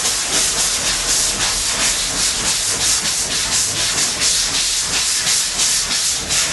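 Hand block sanding of a primed car body panel with 180-grit paper on a flexible sanding block, in rhythmic back-and-forth strokes about three a second. This is guide-coat block sanding to show up the panel's high and low spots.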